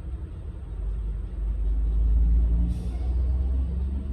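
Low road and engine rumble inside a moving car's cabin, growing louder about two seconds in, with a short hiss shortly after.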